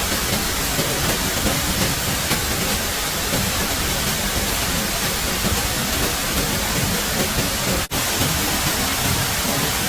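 Steady rushing water noise, even and loud, broken by a momentary dropout about eight seconds in.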